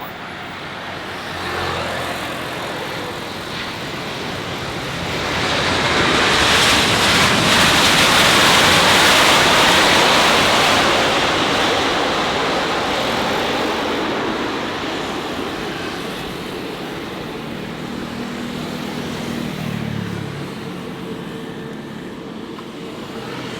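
Jet airliner passing close by: its engine roar builds over a few seconds, peaks, then slowly fades away.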